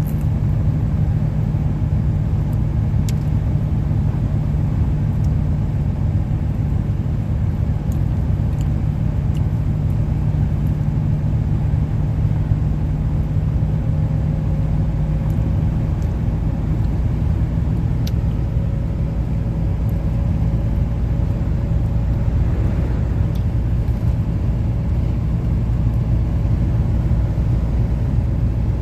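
Steady low rumble inside a car's cabin, with an even hum and no change in level, with a few faint clicks over it.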